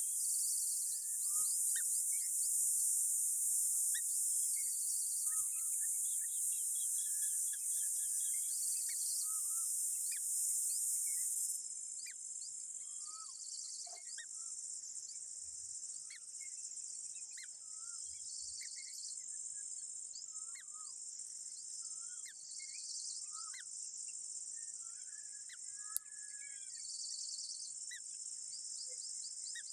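Steady, high-pitched insect chorus that drops in level and narrows in pitch about twelve seconds in, with a phrase rising out of it every four to five seconds. Short bird chirps and whistles are scattered throughout, and there is one sharp click near the end.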